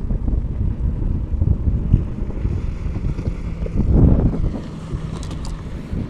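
Wind buffeting the microphone outdoors on open water, a loud, gusty low rumble. A faint steady hum runs under it in the second half.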